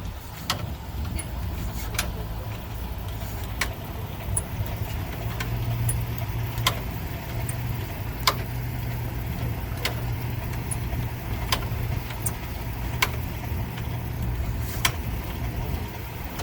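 1914 Ford Model T four-cylinder engine running at a steady idle, with a sharp click about every second and a half.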